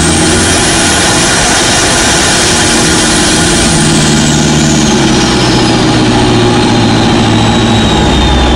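Modified Toyota Innova's turbocharged 1KD 3.0-litre diesel engine running steadily under load at highway speed, heard from inside the cabin. A thin high whine slowly falls in pitch through the second half.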